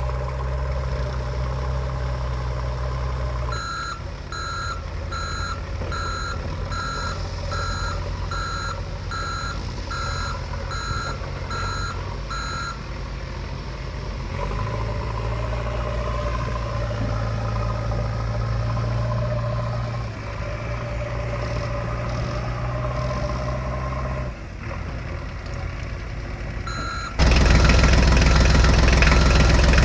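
Tractor engine running steadily, with a reversing alarm beeping about one and a half times a second for several seconds in the first half. The engine gets suddenly louder near the end.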